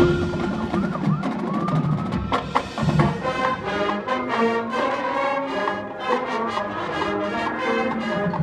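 High school marching band playing with brass and a full percussion section, with many sharp drum and wood-block strikes over sustained brass chords; a loud entrance hits right at the start.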